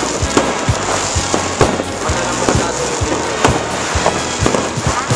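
Fireworks exploding in a rapid, irregular barrage of bangs and pops, several a second, with music playing underneath.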